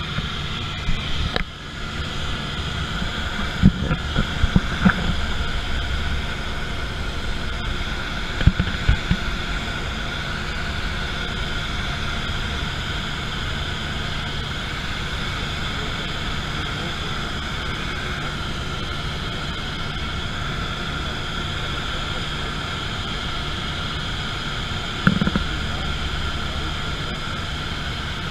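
Airplane engine and propeller droning steadily at a constant pitch, with a few brief low bumps, several in the first ten seconds and one more near the end.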